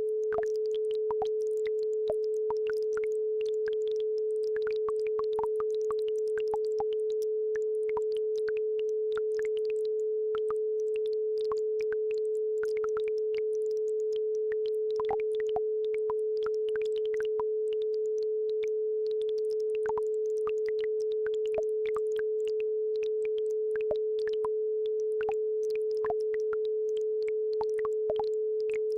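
A steady pure 432 Hz tone, held without a break, with a faint trickle of brook water heard as scattered small ticks and splashes behind it.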